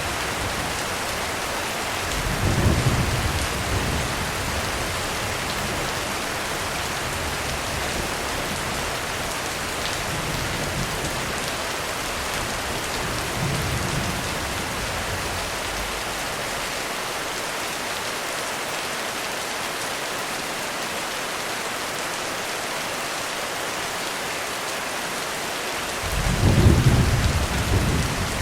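Heavy rain falling steadily on a roof, with thunder rumbling: a short rumble about two seconds in, a fainter one near the middle, and the loudest roll near the end.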